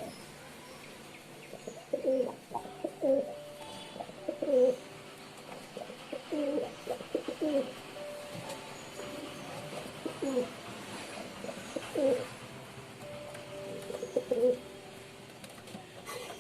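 Domestic pigeons cooing: a series of low coo phrases repeated every second or two.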